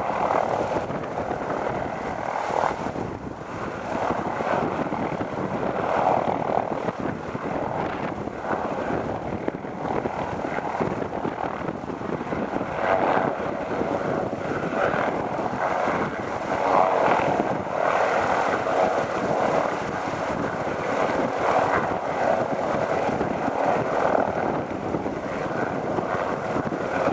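Helicopter in flight, its engine and rotor running steadily, with the level swelling and easing every few seconds.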